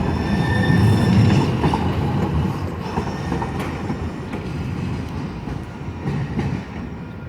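A train running along the tracks, its wheels giving a high squeal in the first second or so, and its rumble fading as it moves off.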